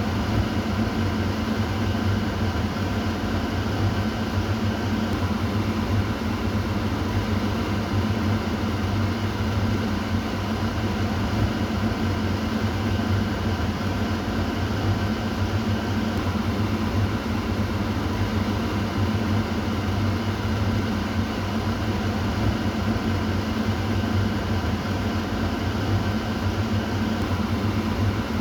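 Kitchen exhaust fan running steadily: a constant whooshing of air over a low motor hum, with a few faint steady tones above it.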